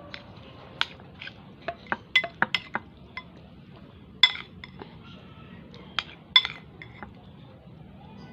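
Cutlery clinking and tapping against a bowl while eating noodles: a string of sharp taps, the two loudest, a little over four and about six and a half seconds in, ringing briefly.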